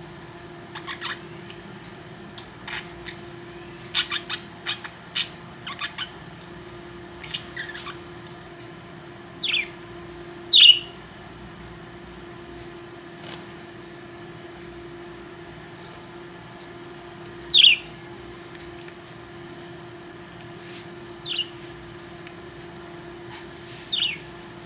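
Pet parrots calling. Quick chirps and clicks come in a cluster over the first several seconds, then single sharp squawks with a falling pitch every few seconds, over a steady low hum.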